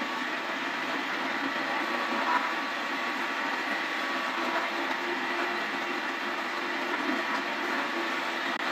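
Woodworking machine, most likely a lathe turning a wooden cot leg, running steadily with an even mechanical hum and a light knock about two and a half seconds in.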